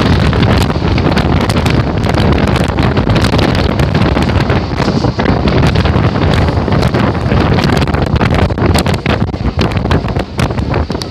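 Wind buffeting the phone microphone at the open door of a moving electric local train, over the loud running rumble of the train. Many sharp clicks come through the second half.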